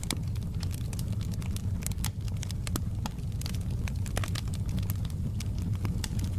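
Wood fire crackling in a fireplace: a steady low rumble of burning with many sharp, irregular pops and snaps.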